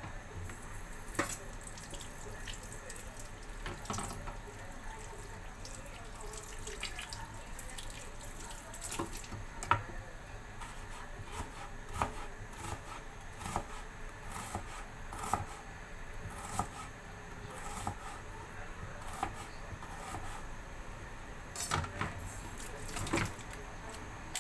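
Pot of chicken soup boiling: a steady bubbling with small irregular pops, and a few louder knocks near the end.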